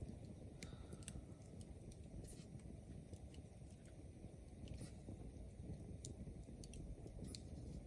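Wood fire burning: a steady low rumble with sharp crackles and pops scattered irregularly throughout.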